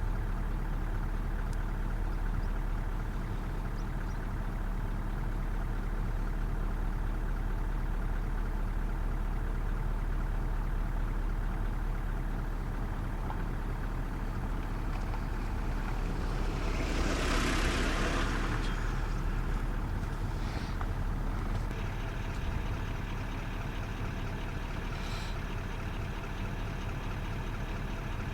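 Vehicle engine idling steadily, with a brief rushing swell of noise partway through.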